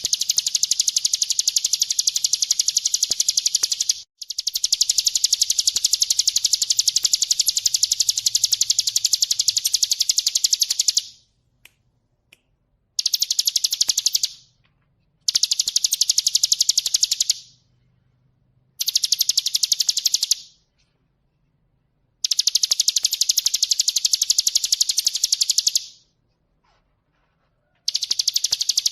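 Ciblek gunung singing: a rapid, high-pitched trill of densely repeated notes, delivered in seven bursts of a second and a half to seven seconds, with short pauses between them.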